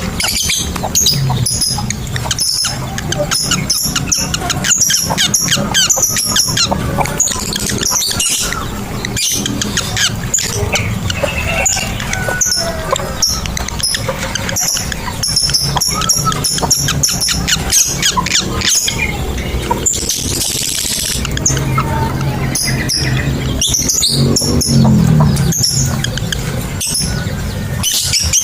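Lovebirds calling with many rapid, shrill chirps and squeaks, and one longer harsh burst about twenty seconds in, over background music.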